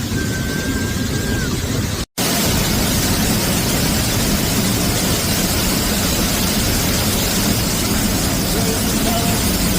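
Waterfall in spate after heavy rain: a loud, steady roar of falling water. It cuts out sharply for a split second about two seconds in, then the roar carries on slightly louder.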